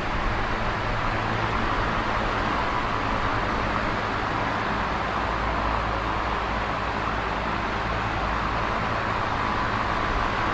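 Electric fan running steadily: an even rush of moving air with a faint low hum underneath.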